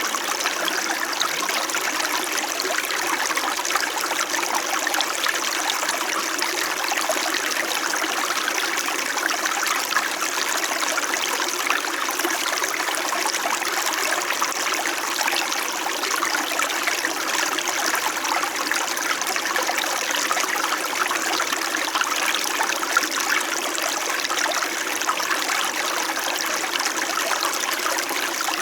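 Small mountain stream flowing and babbling steadily over stones.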